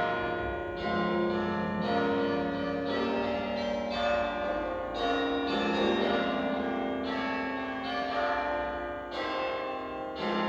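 Church bells ringing a sequence of struck notes at different pitches, each strike ringing on under the next.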